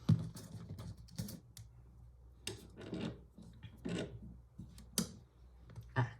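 Knocks and clatters of objects being moved about on a tabletop: about six irregular hits over several seconds, some with a short rattle.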